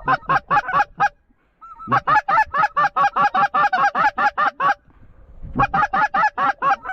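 Goose calling: fast runs of short clucking honks, about six notes a second, in three bursts, the longest about three seconds.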